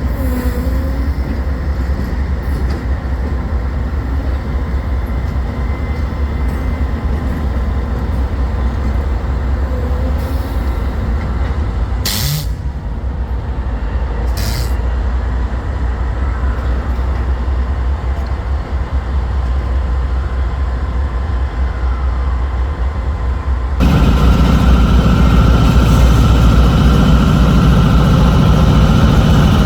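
Union Pacific diesel locomotives running with a steady low rumble, with two short hisses about halfway through. About 24 s in the sound suddenly gets louder and a steady whine comes in over the rumble.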